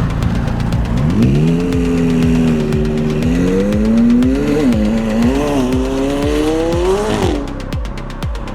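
A sports car's engine accelerating hard as it pulls away. Its pitch climbs, dips briefly twice and climbs again, then cuts off abruptly near the end as the driver lifts.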